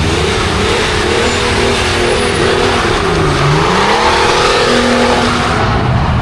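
A car engine revving hard and loud, its pitch dropping about three seconds in and then climbing again, over a steady dense hiss.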